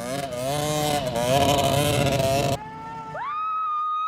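Dirt bike engine revving, its pitch wavering up and down. About two and a half seconds in, the sound cuts off abruptly and a high steady whine glides up and holds.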